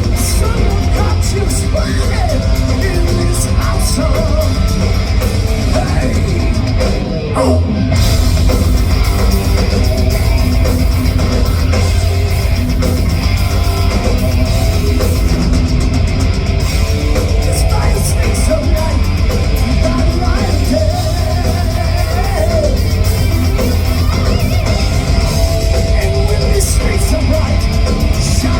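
Live heavy rock band playing loud, with electric guitars, bass and drum kit, and a lead singer singing and yelling over them. The sound dips briefly about seven seconds in.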